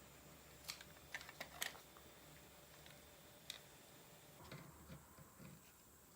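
A quick run of light clicks, a single click a couple of seconds later, then a few soft knocks: small hard parts being handled.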